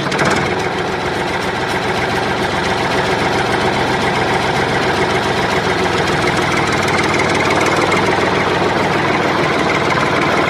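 Tractor diesel engine idling steadily with a fast, even pulsing beat.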